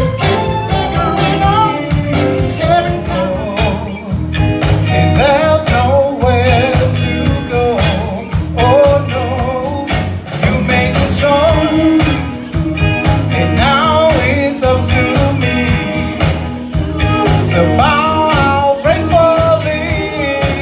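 Live soul band playing with a lead singer over a steady drum beat and guitar.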